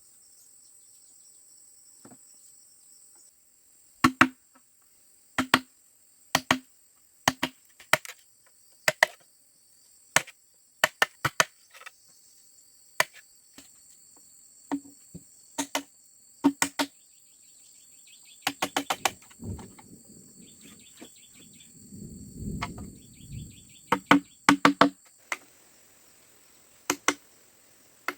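Sharp knocks of a tool striking bamboo, one at a time and in quick runs, at an uneven pace. Insects keep up a steady high buzz behind them until near the end, and there is a brief rustle between the knocks about two thirds of the way in.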